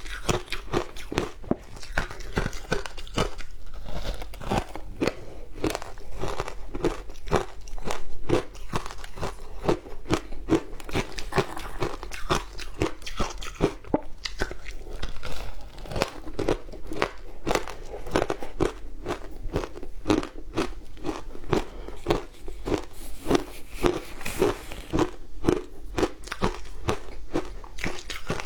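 Frozen matcha ice being bitten and chewed close to the microphone: a continuous run of crisp, brittle crunches, several each second.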